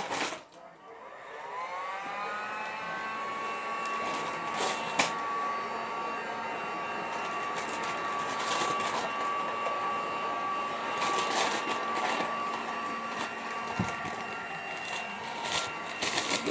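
Heat gun switched on about a second in, its fan motor spinning up to a steady, high whine with a low hum beneath. A few sharp clicks and knocks come through over it.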